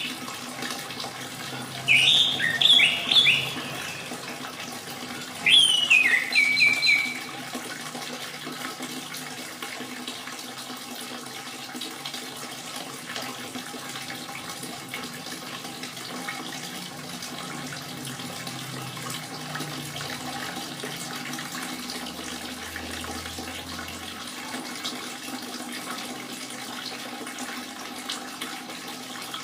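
Steady trickle of running water with an orange-headed thrush singing two short bursts of quick, falling whistled notes in the first seven seconds. After that only the water is heard.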